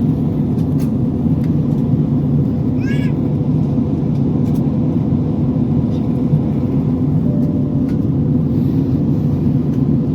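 Steady low roar of an airliner cabin in flight, engine and airflow noise with a faint steady hum. About three seconds in, one brief high, wavering cry cuts through it.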